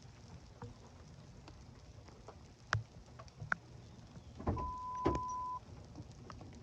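Scattered clicks and knocks, then a thump followed by a single steady electronic beep lasting about a second, with another thump partway through the beep.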